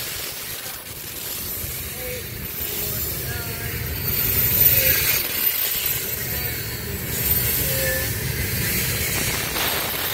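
Loaded coal hopper cars rolling past on the rails: a steady rumble of wheels with a hiss, louder about four to five seconds in, and a few brief faint squeals.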